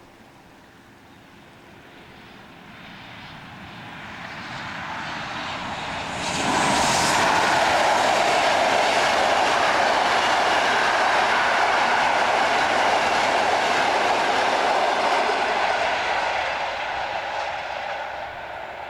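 A train approaching and passing close by on the rails: the sound builds for several seconds, jumps up sharply about six seconds in as it reaches the microphone, stays loud for about ten seconds while it runs past, then fades as it goes away.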